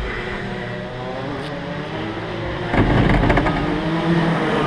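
Yamaha KT100 single-cylinder two-stroke kart engine running, with a burst of loud rapid clattering a little under three seconds in. This is the chain slipping over the front sprocket, whose teeth are worn off because the chain had gone loose.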